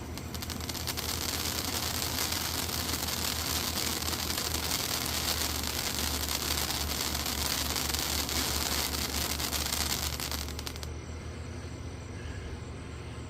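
Consumer firework fountain (AK-47 Pew Pew) burning, a steady loud spray hiss with a fine crackle, that cuts off abruptly about eleven seconds in as the fountain burns out.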